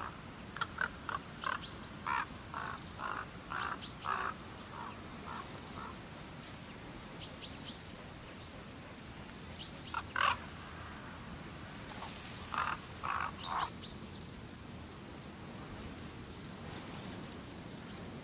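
Birds calling outdoors: clusters of short notes repeated several times a second, with thin high chirps in between, over a faint steady hiss.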